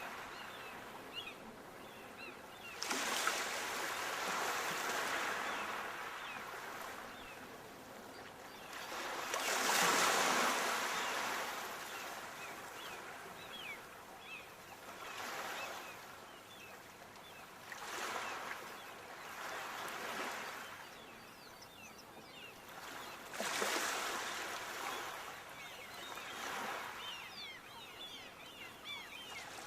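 Sea waves breaking on the shore: a wash of surf that swells and falls away every few seconds, the biggest about ten seconds in.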